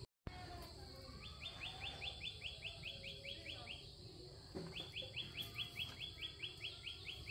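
A bird calling in two runs of fast, evenly repeated high chirps, about six a second. The first run lasts a couple of seconds and the second starts near the middle and carries on.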